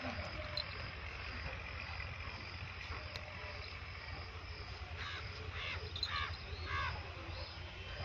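A bird gives four short, harsh calls about half a second apart in the second half, over a steady low hum.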